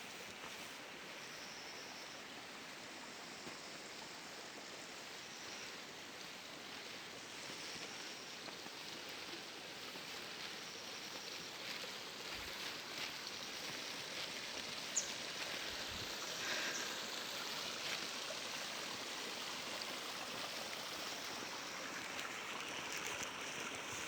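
Water flowing in a stream, a steady rushing hiss that grows slightly louder, with a few small clicks in the second half.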